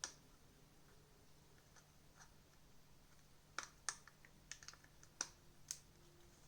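Scattered light clicks and taps of a plastic TV remote and small tools being handled during disassembly: one click at the start, then a loose run of about half a dozen around the middle.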